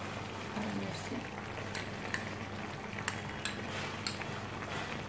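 Mutton cooking in its own juices in a kadhai, a steady soft frying and simmering hiss. A few light, sharp clicks come through it as green chilli paste is added from a glass bowl.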